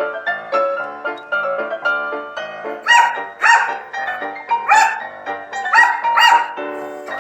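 Light piano music plays throughout; from about three seconds in, a dog barks about five times over it, short loud barks in quick pairs.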